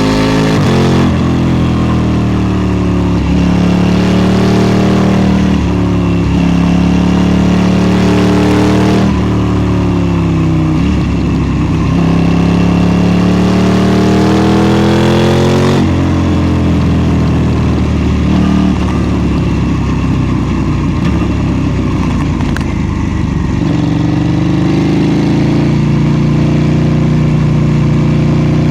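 KTM 790 Duke's parallel-twin engine under a hard ride: the pitch climbs and drops back several times as it pulls through gear changes, then eases off and runs at a steadier pitch near the end.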